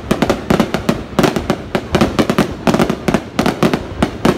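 Aerial fireworks going off overhead: a rapid, dense string of sharp bangs and crackles, coming in clusters of several a second.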